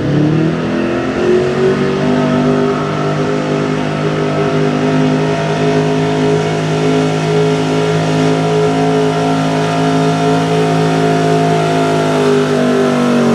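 GM LS gasoline V8 engine of a 4x4 pickup pulling a weight-transfer sled: the revs climb over the first second or so, then hold high and steady under full load.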